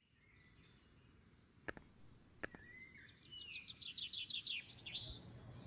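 Birds chirping over a farm field, with a fast run of rapid repeated chirps about halfway through. Two short sharp clicks come about a second apart early on.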